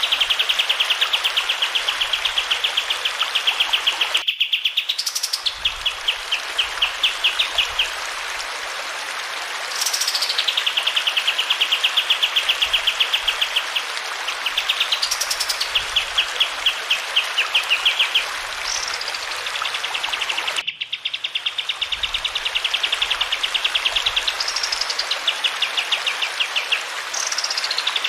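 Kapas tembak songbird singing long, fast, even trills at a steady pitch, broken every few seconds by a high note that sweeps sharply up and falls back into the trill. Under it runs a steady rush of flowing water. The song cuts off abruptly twice, at about four seconds in and again past the twenty-second mark.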